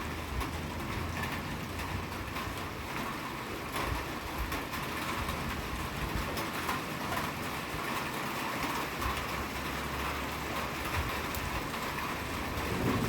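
Steady rain falling, with many fine pattering ticks over an even hiss and a low hum underneath that drops away midway and returns.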